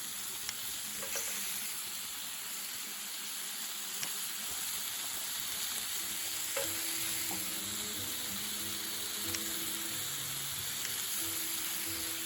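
Steady sizzling hiss with a few sharp crackles or clicks scattered through it. A faint melody of background music comes in about halfway.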